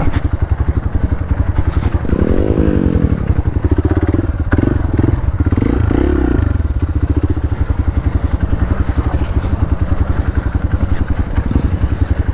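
Hero Xpulse 200's single-cylinder engine running with a steady exhaust beat, revved up and down about two seconds in and again around the middle while riding a slippery off-road track.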